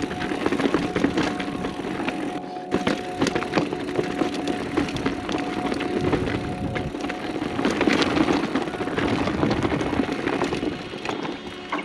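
Mountain bike clattering down rough, rocky singletrack: tyres crunching over dirt and stones, with a constant run of sharp knocks and rattles from the bike and its parts. The loudness dips slightly about 2.5 seconds in and eases off near the end.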